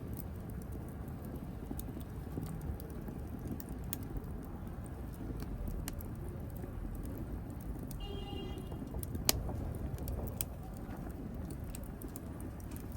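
Wood fire burning in a fireplace: a steady low rumble with scattered crackles and pops, and one sharp, louder pop about nine seconds in.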